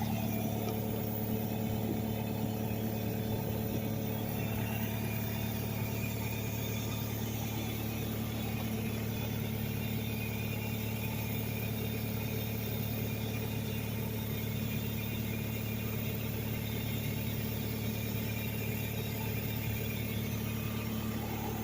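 Kubota KX057-4 mini excavator's diesel engine running steadily, with a constant screech and hiss over it. The owner could not trace the noise: he checked for a vacuum leak and found none, and allows that it may be normal.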